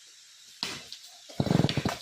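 Stihl 070 two-stroke chainsaw given a short burst of throttle past halfway, a rapid pulsing run that drops back after about half a second. A sharp knock comes just before it, over a steady hiss of water.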